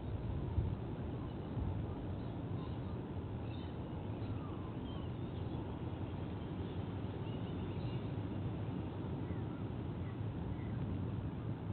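Steady low outdoor rumble on the nest camera's microphone, with faint, scattered high bird chirps over it and a small knock about half a second in.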